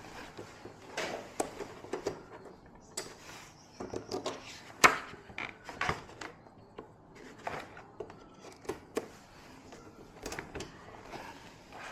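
Irregular clicks, taps and knocks of small hard objects being handled, with a sharp knock about five seconds in.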